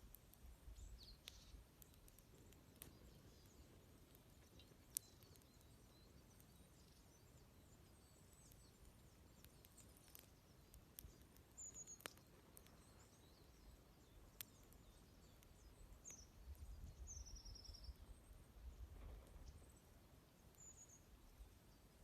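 Faint wood fire with a few sharp crackling pops, while small birds give short, high chirps and little falling trills several times, mostly in the second half. A low rumble swells and fades in the later part.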